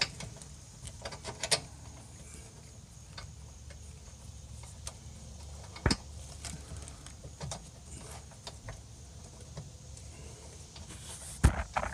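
Light metallic clicks and taps of bolts and hand tools being worked against a sway bar bushing bracket under a car, with a sharper knock about six seconds in and another near the end.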